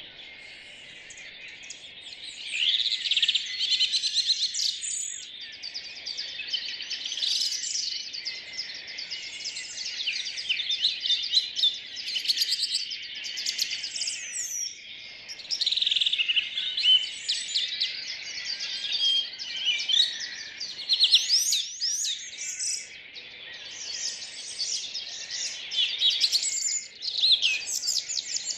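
Dawn chorus of several songbirds singing at once, a dense overlapping mix of rapid chirps, trills and whistled glides. A steady hiss of more distant birdsong runs underneath.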